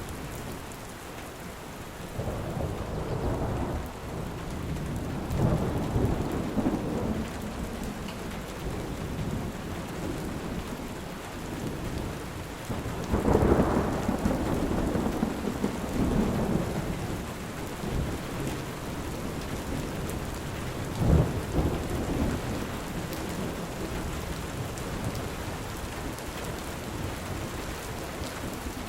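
Steady rain falling, with thunder rumbling over it several times. The loudest roll comes about halfway through, and a sharper crack-like rumble follows a little later.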